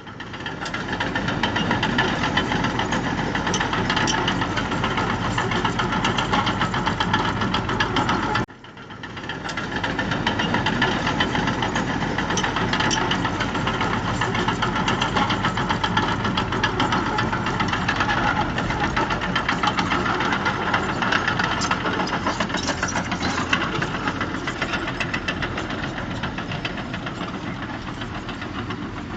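Heavy diesel engine of earthmoving machinery running under steady load with a fast, dense clatter. The sound cuts out abruptly for a moment about eight seconds in, then comes back.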